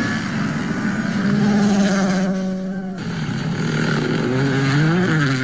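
Rally car engine running hard at speed. Its note holds steady, breaks off about three seconds in, then climbs and falls away near the end.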